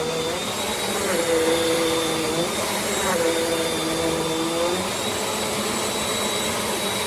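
Bissell CleanView Compact upright vacuum (3508 series) running over carpet to lift a stain, with a steady rushing motor noise. A lower hum in it drops out and returns a few times as the vacuum works the spot.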